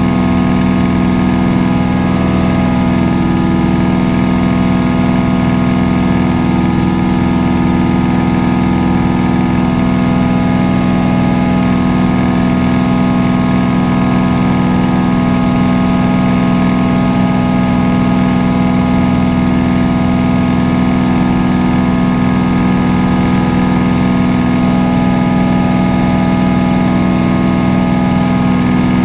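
Propeller aircraft engine heard from inside the cabin in flight, a loud, steady drone with a constant pitch.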